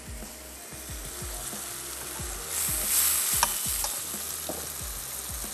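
Chicken pieces frying and sizzling in a hot pan; about two and a half seconds in the sizzle flares up loudly as water is poured in, with a sharp click just after.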